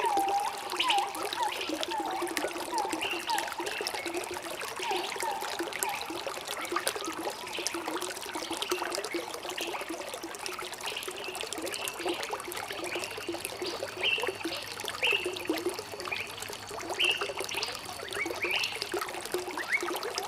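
Shallow stream trickling and gurgling, full of quick liquid plinks, with short high bird chirps over it every second or so.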